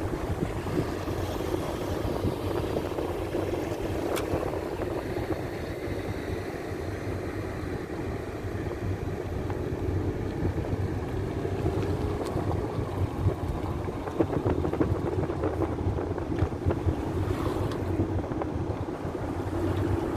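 Steady outdoor rushing noise with a low rumble that comes and goes, like wind buffeting the microphone, and a few faint clicks.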